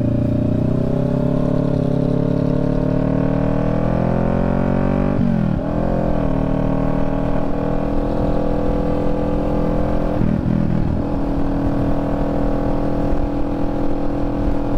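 Motorcycle engine pulling under acceleration, its pitch rising for about five seconds. It shifts gear about five seconds in and again about ten seconds in, then runs at a steady pitch.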